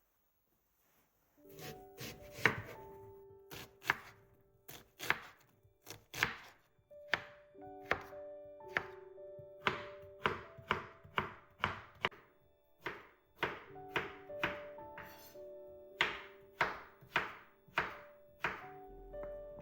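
Knife chopping on a cutting board: sharp, steady strokes about one and a half a second, starting about a second and a half in, over soft instrumental music.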